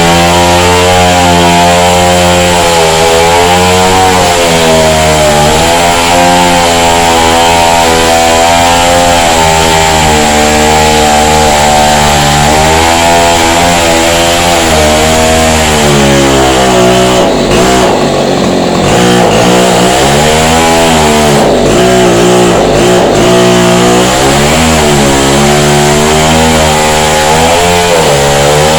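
Petrol chainsaw running hard while cutting into a wall, its engine pitch sagging and recovering over and over. About two thirds of the way through, the pitch becomes rougher and more unsteady for several seconds.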